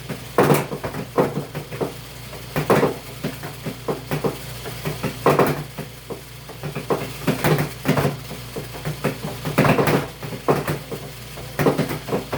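Portable washing machine running: a steady low motor hum under repeated, irregular knocks and clatter.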